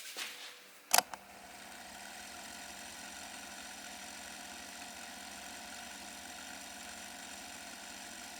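A sharp click about a second in, then a steady machine hum with several held tones.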